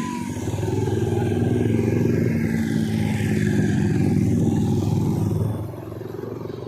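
A vehicle engine running loud, which grows louder about half a second in and drops away about five and a half seconds in.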